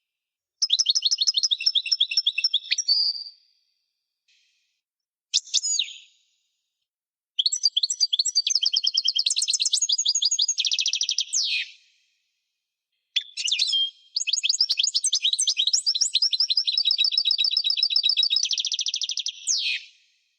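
European goldfinch singing in the wadani style: four phrases of fast, high twittering trills, the last two each several seconds long, with short silent pauses between them.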